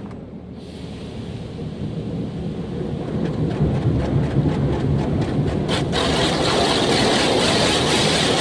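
Automatic car wash running: water drumming on the car over a low rumble that builds in loudness, with a rapid patter and then, about six seconds in, a louder hissing spray setting in.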